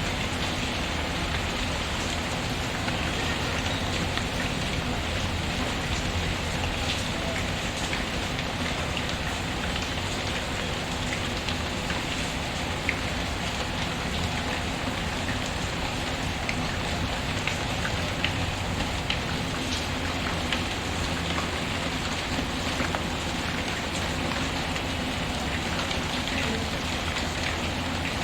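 Steady rain falling, an even patter with scattered sharp ticks through it.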